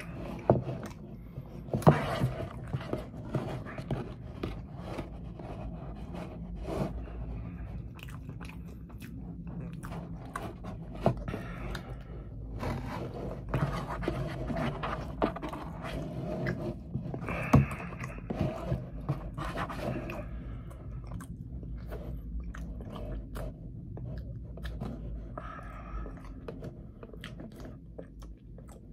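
A person chewing food close to the microphone, with mouth clicks and smacks throughout. There are a few louder knocks about two seconds in and a little past the middle.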